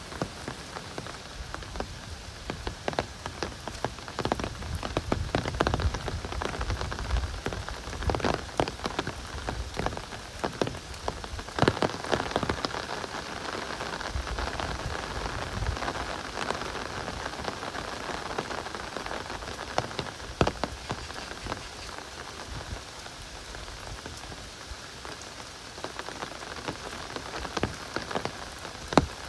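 Heavy rain pouring steadily, a dense hiss with many sharp, close drop hits.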